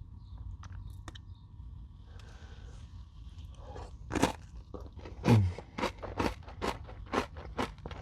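Close-up chewing of a crunchy Nature Valley granola bar. Quiet for the first few seconds, then from about halfway through a run of sharp crunches, roughly two a second.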